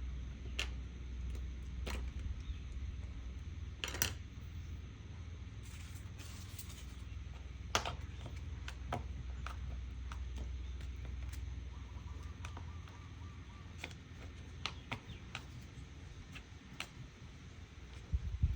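Scattered small clicks and taps of paper and craft materials being handled on a work table, with a brief rustle partway through, over a steady low hum.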